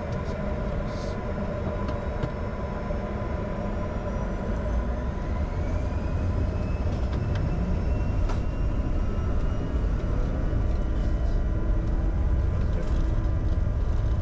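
Cockpit noise of a Bombardier Challenger 605's GE CF34 turbofan engines: a steady rumble with a whine that rises in pitch about five seconds in, the level building gradually as thrust comes up.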